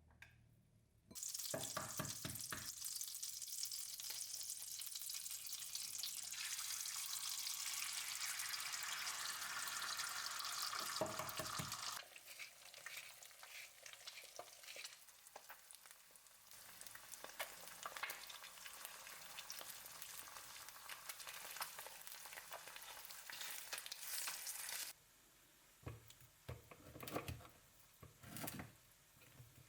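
Food sizzling in a frying pan, with a steady crackling hiss that starts suddenly about a second in. It is loudest for the first ten seconds or so, then goes on more softly with scattered clicks, and cuts off abruptly near the end.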